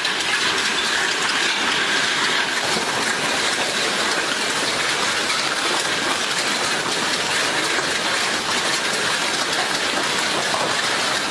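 Hailstorm: hail and rain coming down hard, a dense, steady din of countless small impacts.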